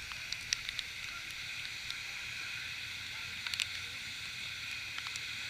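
Steady hiss of rain over a faint low rumble, with scattered sharp ticks of single drops striking.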